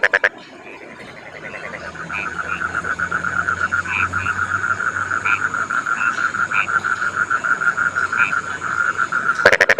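Rice-field frogs calling: a fast pulsing trill builds up from about a second in and keeps going, with short, higher croaks from other frogs scattered over it. A loud, rapid rattling call from a close frog ends just after the start, and another begins just before the end.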